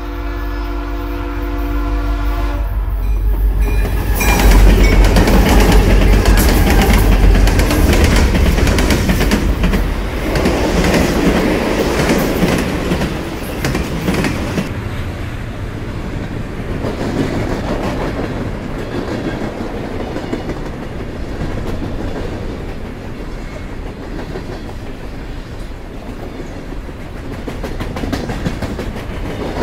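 Sound effect of a full-size train: a horn sounding that stops about two and a half seconds in, then the train passing with wheels clacking over the rail joints, loudest a few seconds later and slowly dying down.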